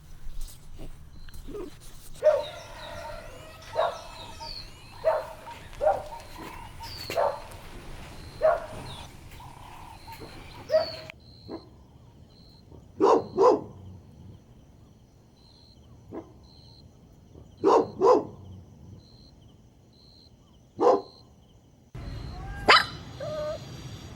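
Dogs barking and yipping in short, separate calls, some in quick pairs, over a faint regular high chirping. The background changes abruptly about 11 seconds and 22 seconds in, where separate recordings are joined.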